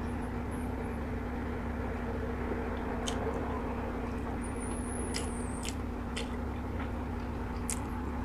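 A person chewing food with the mouth closed, with a few short sharp mouth clicks, over a steady low hum.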